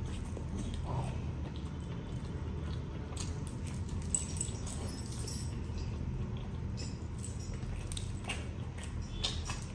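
Close-miked chewing and wet mouth sounds of a person eating meat by hand, with many small scattered clicks and smacks over a steady low rumble.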